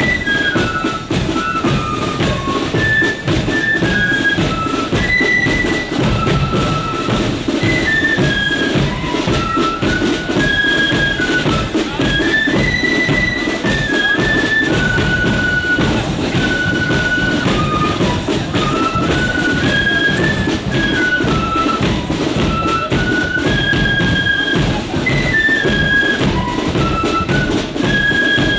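Marching flute band playing a tune: flutes carry a single stepping melody over steady drumming from bass and snare drums.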